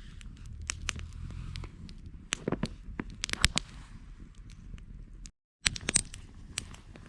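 Wood campfire crackling, with sharp irregular pops of burning wood over a low rumble, the loudest pops in the middle. The sound drops out completely for a moment about five seconds in.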